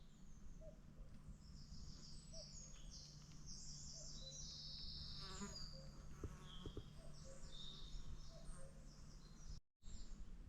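Small birds chirping and singing in short, high phrases over a steady low insect buzz, all faint. The buzz stops and the sound drops out briefly near the end.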